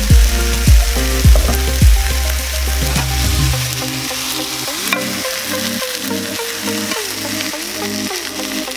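Ground meat, rice and broccoli sizzling in a frying pan. Background music plays over it, with a deep pounding beat for about the first two seconds that then gives way to held and gliding tones.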